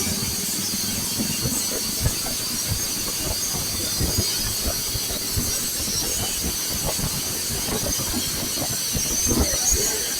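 Wind rumbling and buffeting on the microphone, under a steady high hiss.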